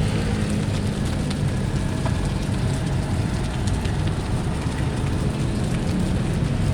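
Steady sizzling hiss of fried rice frying in a wok, with a few faint clicks. The low hum of a passing motor vehicle fades out within the first second.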